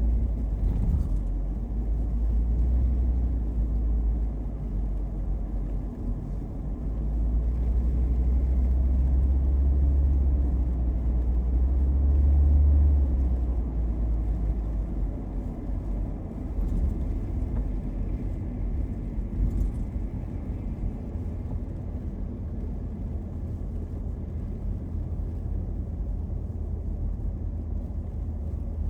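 Car driving, a steady low rumble of engine and road noise heard from inside the vehicle, swelling louder for several seconds partway through and then settling back.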